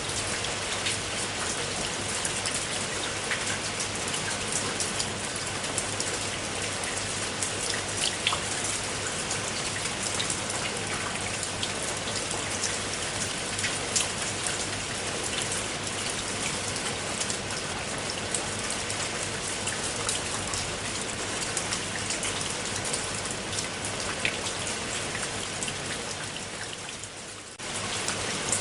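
Steady rain falling, with scattered individual drops ticking sharply through the steady patter. Near the end the rain fades briefly, then cuts straight back in at full level.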